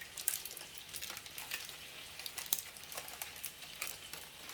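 Chicken sizzling in a frying pan: an irregular crackle over a steady hiss.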